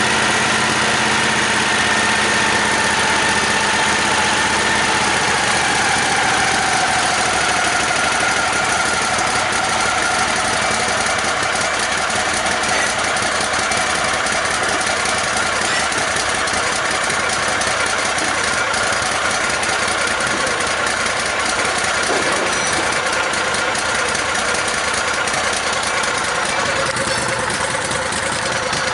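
A vehicle's engine idling just after a cold start, warming up. Its pitch sinks a little over the first several seconds, then holds steady.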